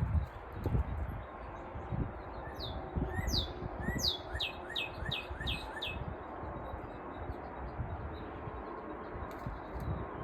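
A small bird chirping in quick runs of short, sharp, falling notes. The longest run, about six notes, comes about four seconds in. A low, uneven rumbling noise runs underneath.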